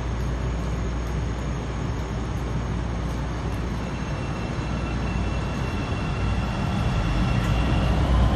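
CTA 5000-series rapid-transit train running, a steady rumble with a faint high whine that grows louder toward the end.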